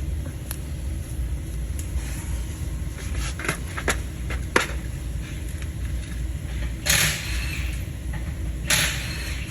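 A few small sharp clicks, then two short scraping rustles, from working a terminal pin out of a plastic wiring connector with a pin-removal tool, over a steady low rumble.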